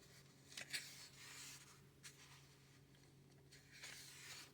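Faint rustle of paper pages being turned in a book: a few soft swishes and flicks, the sharpest just under a second in.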